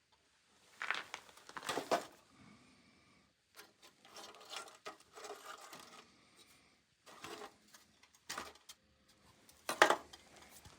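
Hands working on a furnace and pulling a dusty part out of it: scattered metallic knocks and clatters between stretches of scraping and rustling, with the sharpest knock near the end.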